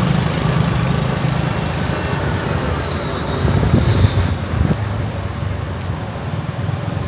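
Steady motorbike engine and road noise while riding through city traffic.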